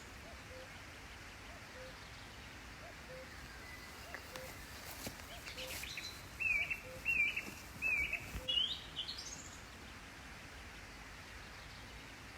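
Birds calling over a steady outdoor hiss: three short chirps about six to eight seconds in, then a quick rising whistled phrase, with a faint low note repeating in the background.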